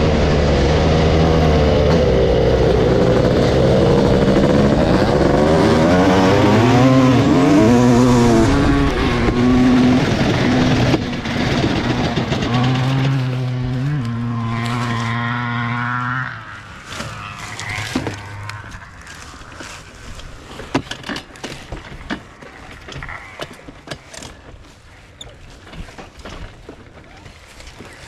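Dirt bike engine revving up and down through the gears, its pitch rising and falling, then holding steadier before dying away about sixteen seconds in. Scattered light clicks and ticks follow.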